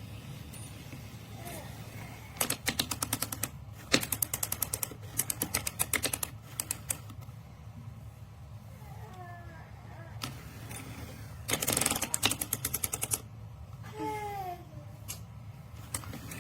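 Battery-powered toy train running on its track: runs of rapid clicking, with a dense burst about two-thirds of the way through, over a steady low hum.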